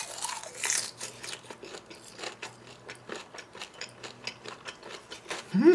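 Close-miked chewing of a bite of raw yellowtail sashimi wrapped in roasted laver seaweed: a soft bite, then rapid, wet chewing clicks, several a second. A short rising hum of the voice comes near the end.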